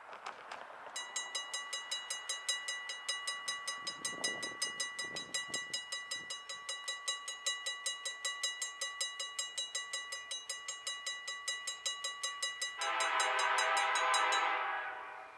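Grade-crossing warning bell ringing rapidly, about five strokes a second, as a train approaches. Near the end a CSX diesel locomotive's air horn sounds one long blast, the loudest sound.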